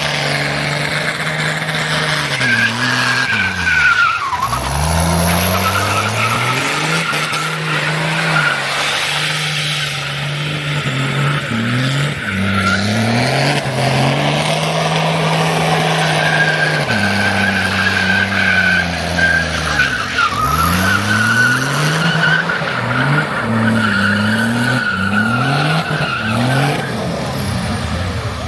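Car engines at high revs with tyres squealing, as in a drag-strip burnout and launch. Twice the engine note falls away sharply, then climbs again in quick successive steps.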